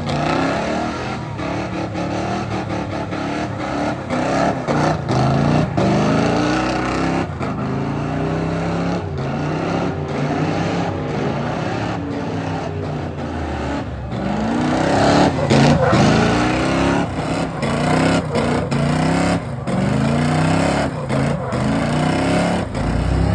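Ford 460 big-block V8 in a 1969 F100 pickup revving hard again and again, its pitch climbing in repeated sweeps that come about once a second in the second half.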